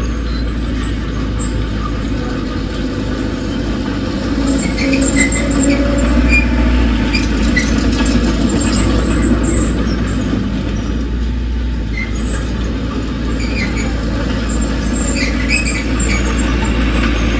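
Crawler bulldozer working: its diesel engine runs steadily under load while the steel tracks give off scattered short high squeals and squeaks.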